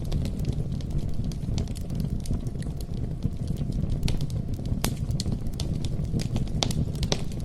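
Campfire burning: a steady low rumble of flames with frequent sharp, irregular pops and snaps of burning wood.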